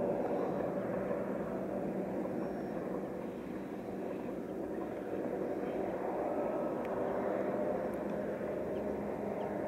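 Passenger train's locomotive running as the train passes, a steady drone with a constant low hum.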